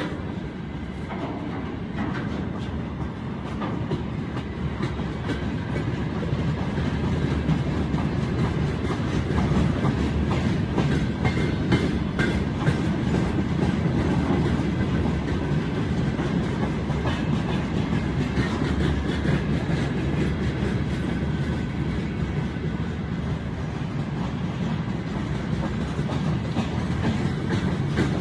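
Long, heavy freight train rolling past, its wagons rumbling steadily with the wheels clacking over the rail joints. It grows louder over the first ten seconds or so, then holds steady.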